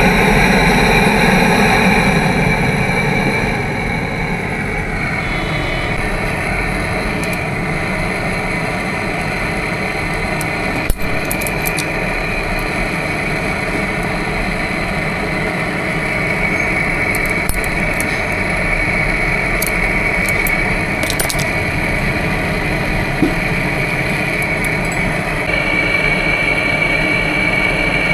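A small motor-driven machine runs steadily with an even hum. Its sound eases slightly about four seconds in, and a couple of sharp clicks cut through it.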